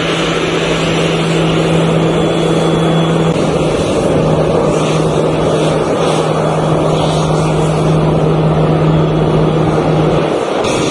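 Aircraft engines running: a steady, loud drone with a constant low hum, which dips slightly in pitch about three and a half seconds in.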